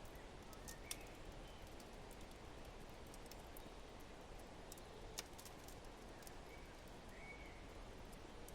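Faint fireplace ambience: a wood fire crackling with scattered sharp pops, two louder ones about a second in and about five seconds in, over a steady low rush of wind, with a few short, faint bird chirps.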